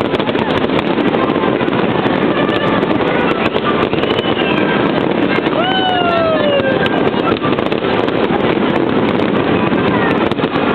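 Fireworks crackling and popping over a loud, steady crowd hubbub. About six seconds in, a cheering voice gives a long whoop that falls in pitch.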